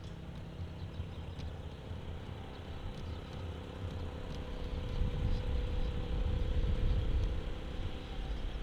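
Linde H20T forklift's Volkswagen LPG engine running, its hum building up about halfway through and easing off again near the end.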